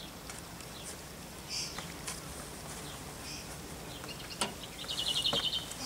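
Outdoor ambience with scattered short bird chirps, then a rapid trill of bird notes near the end. A single sharp click sounds about four and a half seconds in.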